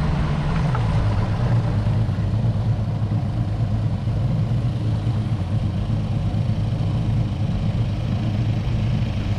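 An engine running steadily at a low, even pitch, which drops slightly about a second in.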